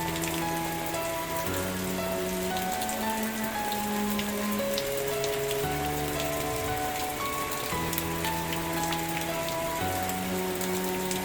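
Steady rain with scattered drop ticks, under soft background music of long held chords that change every second or two.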